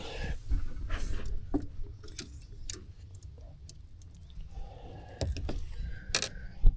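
Scattered light clicks and small metallic clinks of fishing tackle being handled, over a low steady rumble.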